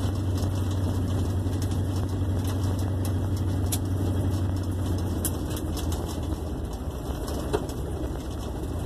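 1958 Plymouth Suburban's engine running under way, its exhaust open at the Y pipe with no muffler, giving a steady low drone that eases off a little about six seconds in, with light rattles over it.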